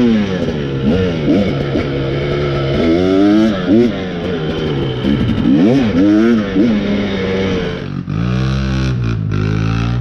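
2023 KTM 300 XC two-stroke dirt bike engine revving up and down again and again as the throttle is opened and closed, then running at steadier, lower revs for the last couple of seconds.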